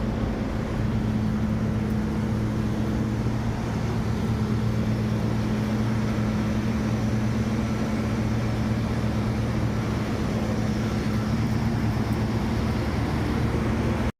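Package air-conditioning unit running with a steady, even low hum.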